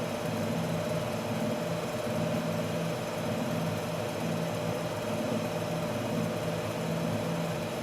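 Tanabe Willtec CS93 top-discharge basket centrifuge running, a steady machine hum with a constant tone and a lower drone that swells and fades. It cuts off suddenly at the very end.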